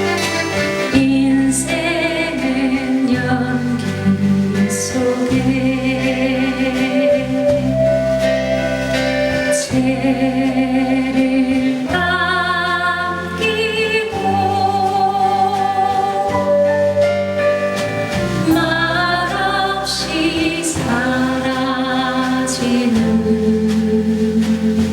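A female singer singing a Korean folk song live, with instrumental accompaniment; the voice holds long notes with vibrato.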